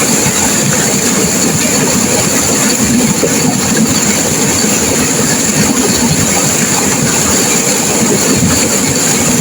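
Turbulent river water rushing and crashing, a loud, steady wash of noise with no let-up.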